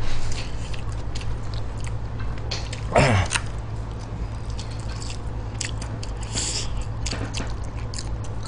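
Close-up eating sounds of a person chewing stir-fried pig intestines and rice, with scattered light clicks, over a steady low hum. About three seconds in, a brief sound falls in pitch.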